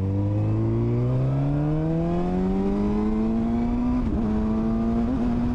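Suzuki GSX-R 600 inline-four engine, running through an open exhaust with its dB killer removed, very loud: the revs climb steadily under throttle for about four seconds, dip briefly, then hold at a steady pitch.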